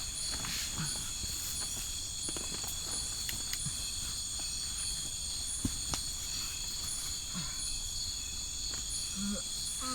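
A chorus of crickets and other insects trilling steadily in several high pitches, with one short call in the top band repeating over and over. A couple of faint sharp clicks come a little past the middle.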